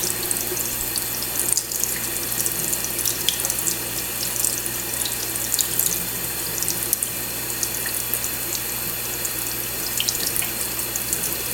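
Kitchen sink tap running steadily, its stream splashing over a cockatiel held under it for a bath.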